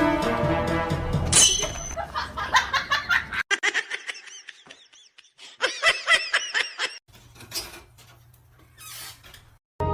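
High-pitched laughter in quick repeated bursts, after a moment of music, with abrupt cuts between short clips.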